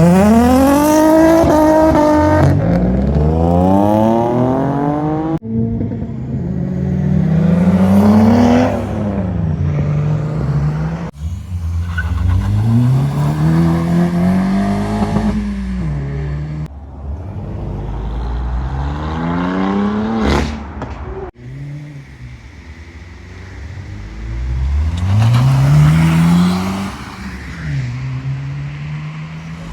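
Modified car engines revving hard as cars accelerate away one after another, each engine's pitch climbing steeply, dropping at a gear change and climbing again. The sound cuts abruptly between cars four times.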